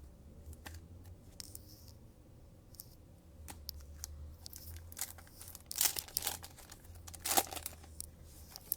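A trading-card pack wrapper being torn open and crinkled, with scattered crackles and two louder rips in the second half.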